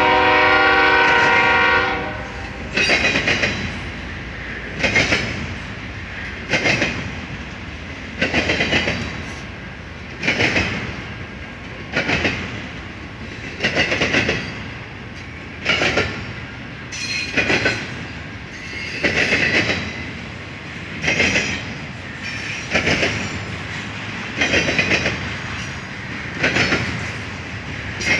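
Double-stack intermodal freight train rolling past, its well-car wheels clacking over a rail joint in a steady beat about every two seconds. A locomotive horn sounds at the start and cuts off about two seconds in.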